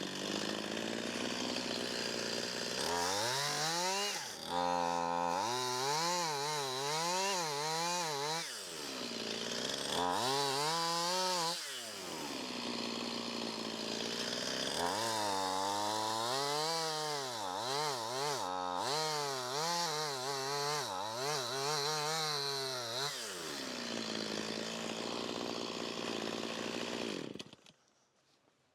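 Chainsaw cutting into a fallen tree to leave a hinge. It idles between cuts and revs up in three spells, the pitch wavering up and down as the chain bites, then it stops near the end.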